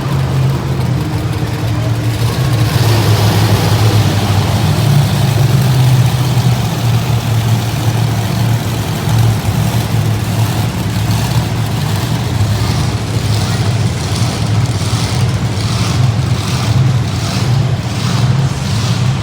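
Monster truck engine running loud and steady, with arena crowd noise underneath. Past the middle, a regular pulsing of about one and a half beats a second joins in.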